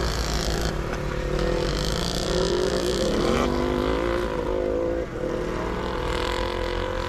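Several sidecar motocross motorcycle engines running hard, their pitch rising and falling as they rev through the gears.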